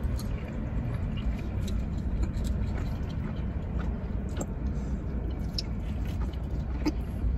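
A person chewing a mouthful of stuffed-crust pizza with small, close-up mouth clicks, over a steady low rumble in the car cabin.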